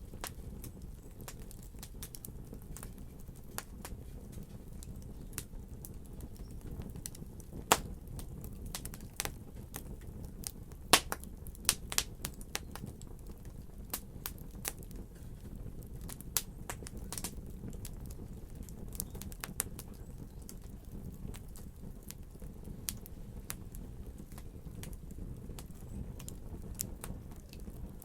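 Fire in a fireplace crackling, with a steady low rumble under scattered sharp pops and snaps; a few louder pops come about a third of the way in.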